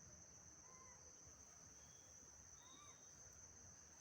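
Faint steady high-pitched insect chirring, with two faint short rising-and-falling chirps about a second in and near three seconds in.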